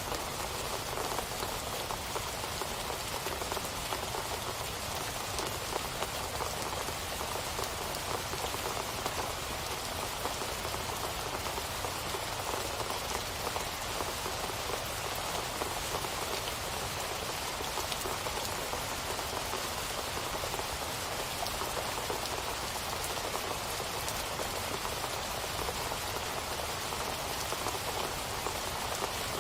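Steady rain falling on surfaces, a continuous even patter of many small drops with no let-up.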